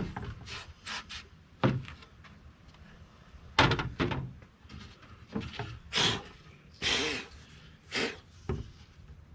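A plywood floor piece being handled and knocking against the boat, giving a run of irregular wooden knocks and thuds, the loudest about three and a half seconds in.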